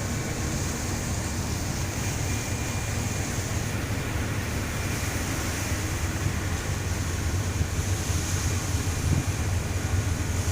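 Steady low rumble of a ship's engines, with wind and water noise over it.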